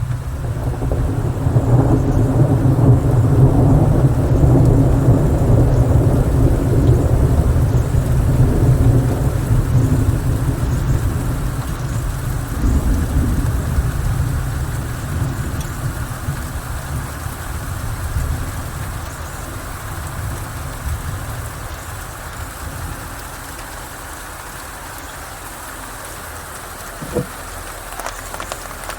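Steady rain falling on leaves, with a long rolling thunder rumble that swells in the first seconds and slowly dies away over about twenty seconds, leaving the rain alone.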